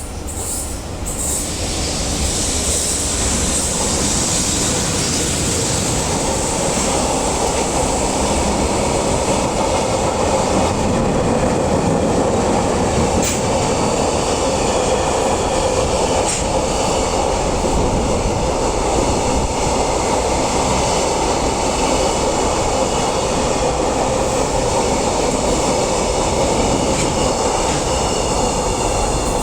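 Freight train behind an EH500 electric locomotive passing through a station without stopping: a steady, loud rolling of steel wheels on rail that builds over the first couple of seconds and then holds even, with a few faint clicks.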